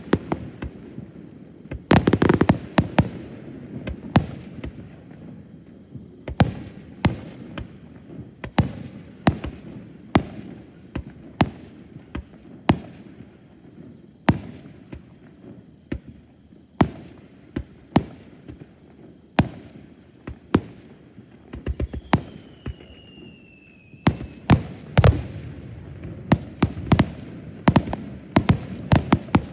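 Aerial fireworks bursting in quick succession: sharp bangs over a low rumble, with dense rapid volleys about two seconds in and again near the end.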